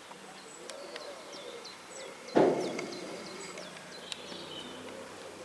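Small birds chirping and twittering outdoors, with one sudden loud thump about two and a half seconds in.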